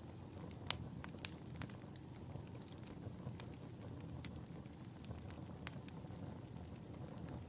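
Wood fire crackling in a fireplace: a steady low rumble of burning with sharp, irregular pops and snaps scattered throughout, the two loudest within the first second and a half.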